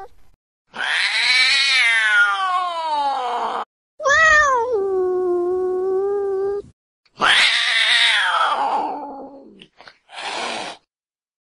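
Recorded cat yowls from an upset, angry cat, played back one clip after another. There are three long drawn-out yowls with short gaps between them: the first and third rise and then fall away, and the middle one starts high and settles into a low held note. A short harsh sound follows near the end.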